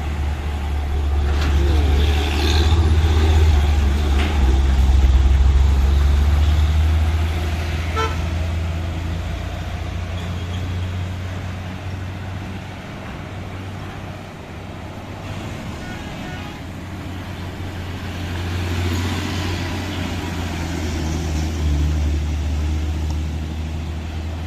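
Diesel engines of loaded heavy trucks passing, a deep drone that swells twice, once in the first third and again near the end. A vehicle horn gives a short toot.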